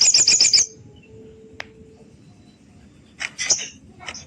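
Sogon bird calling: a rapid chattering run of sharp high notes at the start, a lone click in the pause, then another short chattering burst about three seconds in.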